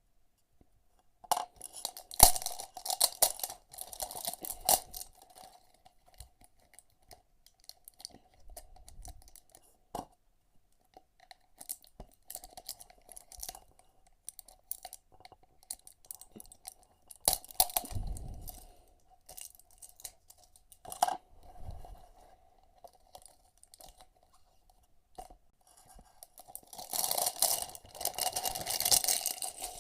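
Packaging being torn open and handled, with crackling, rustling and tearing in several bursts, the longest near the end.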